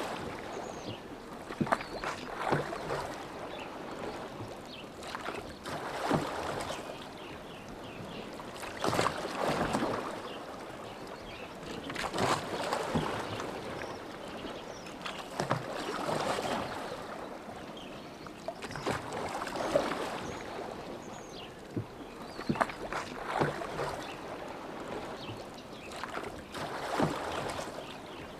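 Oars of a rowboat dipping and pulling through lake water in a steady rowing rhythm, a splashing swell about every three and a half seconds, with short sharp clicks at each stroke.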